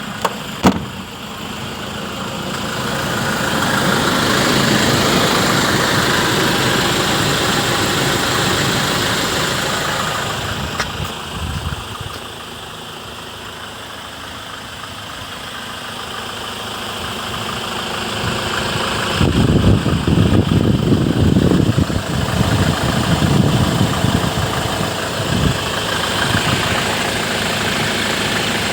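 Land Rover Defender 110's 2.2-litre four-cylinder diesel engine running at idle. Its level swells, fades and swells again, with stretches of heavier low rumbling in the second half. Two sharp clicks come about half a second in.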